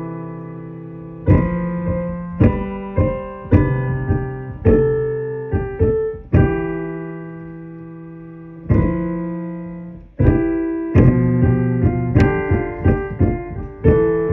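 Electric keyboard played with a piano sound: slow chords struck one after another, each held and left to fade. There is a short break just before ten seconds in, after which the notes come more quickly.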